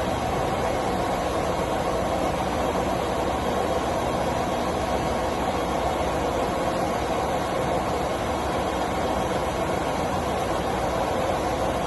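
Steady running noise of machine-shop machinery, with a faint constant tone over an even hum; no starts, stops or cuts.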